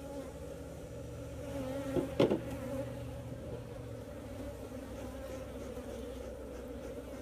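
Honeybees buzzing steadily in a dense cloud around an opened hive, a continuous low hum. About two seconds in comes a single sharp knock.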